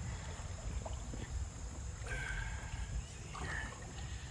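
Kayak drifting and paddling on a shallow creek, with a low rumble of wind on the microphone and faint water and paddle ticks. A bird calls briefly about two seconds in.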